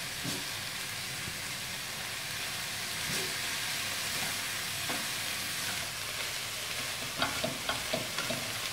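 Quorn mince and chopped vegetables sizzling in a frying pan, with a wooden spatula stirring and scraping through them, the scrapes clustering near the end.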